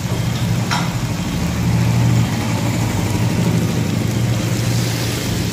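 Chicken and green beans sizzling and simmering in a wok after a splash of water, over a steady low hum. A metal spatula scrapes the pan once, under a second in.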